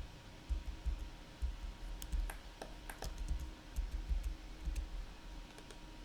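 Clicks of a computer mouse and keyboard, scattered and sharpest in a cluster about two to three seconds in, over soft low bumps on the desk or microphone.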